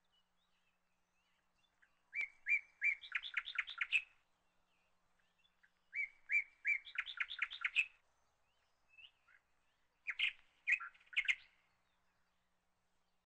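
A bird singing: three short phrases, each a few evenly spaced high chirps that speed up into a quick run of notes, about two seconds each, with quiet gaps between.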